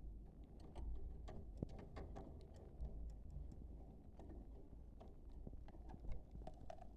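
Budgerigars making faint scattered clicks and ticks, several a second, with a few brief soft chirps.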